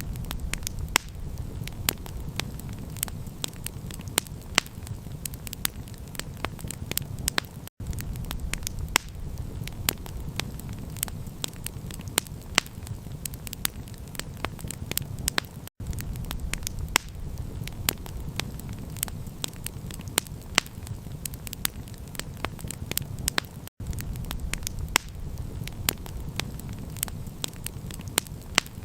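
Campfire crackling: irregular sharp pops and snaps over a steady low rumble. The sound drops out for a split second about every eight seconds, as if looped.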